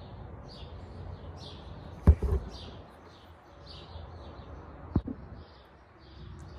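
A bird chirping over and over, short high chirps about twice a second, behind a low hum. Two sharp knocks, about two seconds in and again near five seconds, stand out as the loudest sounds, tools or parts being handled at the workbench.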